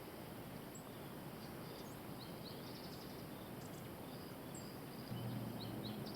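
Outdoor ambience: small birds giving scattered short high chirps and brief trills over a steady hiss. About five seconds in, a low steady hum comes in.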